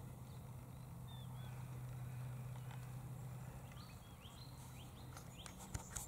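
Faint, short bird chirps over a steady low hum, with a few sharp clicks near the end.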